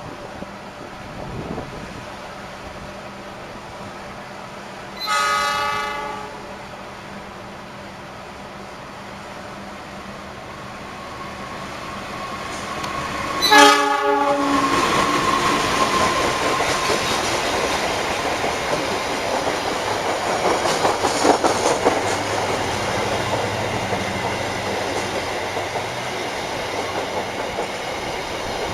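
Train horn sounding twice, a blast of about a second some 5 seconds in and a louder short one near the middle, followed by the rumble and clickety-clack of a train running on the rails, which grows loud and stays so.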